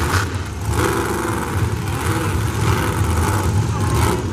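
Monster truck engines running and revving, a deep pulsing engine note with revs rising and falling.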